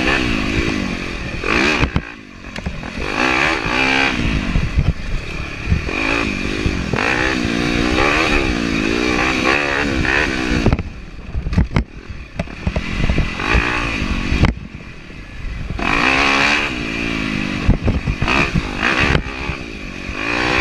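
Yamaha YZ250F four-stroke single-cylinder dirt bike engine being ridden hard, its pitch repeatedly rising and falling as the throttle is opened and closed. The throttle shuts off briefly about two seconds in, around the middle, and again around fifteen seconds in, with clattering from the bike over the trail.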